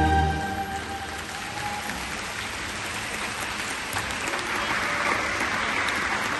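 Audience applauding in a large hall, swelling gradually, as the show music fades out in the first second.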